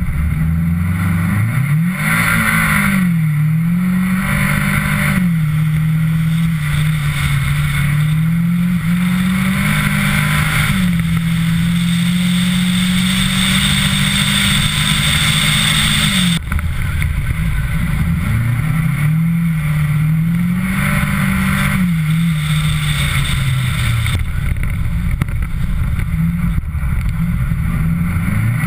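Mitsubishi Lancer Ralliart engine revving up and down through the gears under hard driving, with tyre and wind noise from the snow-covered ice. The engine note holds high for several seconds, breaks off sharply about halfway through, then picks up lower and rises and falls again.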